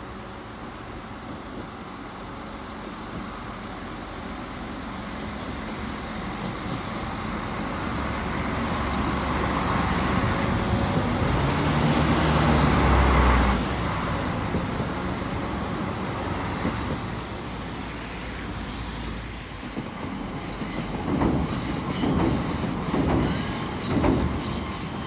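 A train approaching and passing. Its sound builds steadily to a peak about halfway through and drops off sharply just after. Near the end comes a run of wheel clacks over rail joints.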